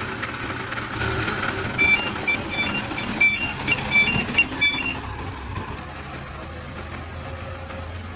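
A run of short, high electronic beeps at a few different pitches, mixed with sharp clicks, over a low steady background hum; the beeping stops about halfway through.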